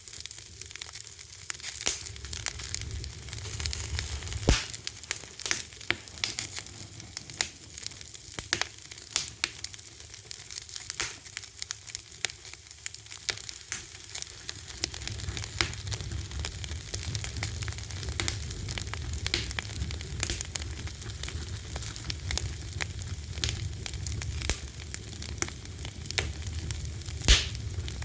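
Wood fire crackling: a steady hiss with frequent sharp pops and snaps, a louder pop about four and a half seconds in and the loudest just before the end, over a low rumble of the flames.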